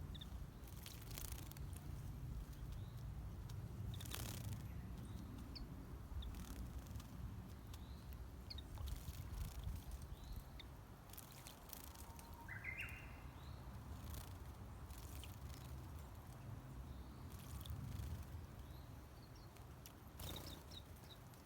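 Quiet outdoor ambience with a steady low rumble, scattered faint high chirps from small birds and one short call about twelve seconds in, broken by several brief clicks.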